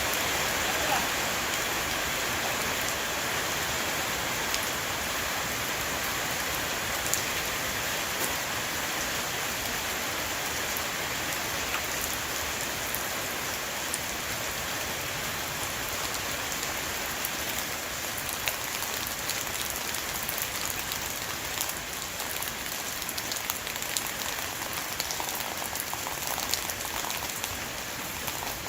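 Rain shower falling on a roof: a steady dense hiss with many separate drop ticks scattered through it, easing slightly in the second half.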